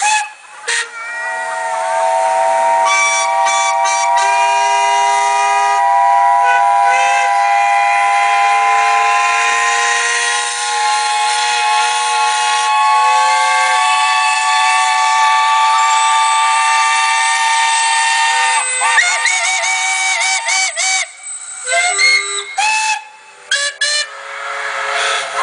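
Many traction engine steam whistles blowing together in a long, loud chord of different pitches, some slowly rising, for about seventeen seconds. They then break off into a scatter of short toots.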